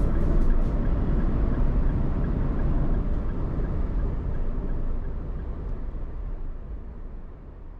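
Steady low rumble of vehicle road noise that fades out gradually over the last few seconds.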